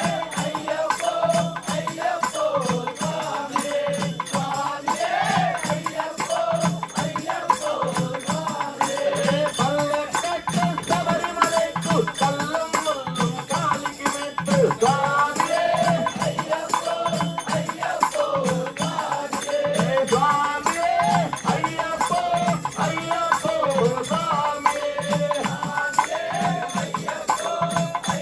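Ayyappa devotional bhajan: voices singing a wavering melody over a steady beat of drums and jingling hand percussion such as rattles or cymbals.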